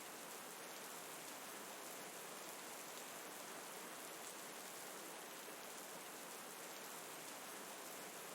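Steady rain: an even, unchanging hiss of falling drops.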